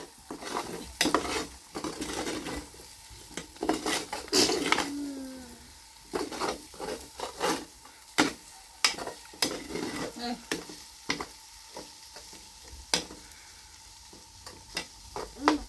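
Home cooking: a utensil knocking and scraping against a pot or pan in irregular strokes, the sound of stirring food.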